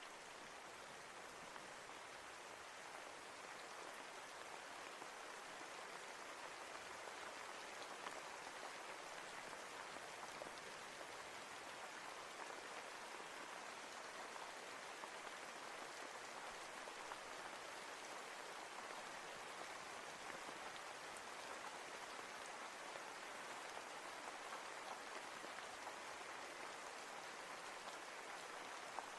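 Steady rain falling, an even hiss with scattered drop ticks, getting a little louder over the first few seconds.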